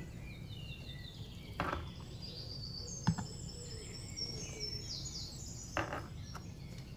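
A small bird twittering in quick runs of high, stepped chirps that stop about five and a half seconds in, over a steady low hum. A few brief soft scrapes and a sharp click from a knife scoring the cake in a metal baking pan.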